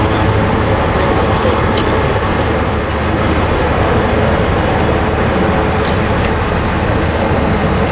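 Marine One helicopter's engines and rotor running loud and steady, with a constant low hum.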